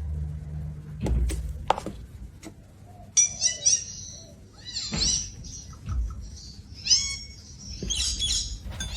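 Bird chirping: short high chirps in several quick clusters, with a few sharp clicks in the first two seconds.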